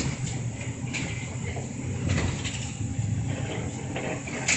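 Interior of a city route bus: the engine runs with a steady low hum. A few short, sharp hisses and clicks come over it, the loudest near the end.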